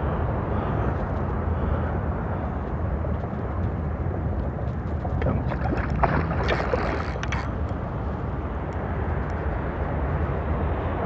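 Wind buffeting the microphone over a steady low rumble of open water, with a short cluster of sharp ticks and crackles a little past the middle.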